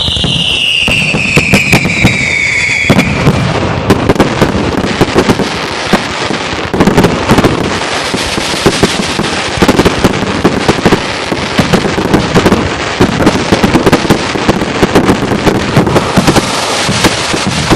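Fireworks: a whistle falling in pitch over the first three seconds, then a dense, continuous barrage of crackling and popping with many sharp bangs.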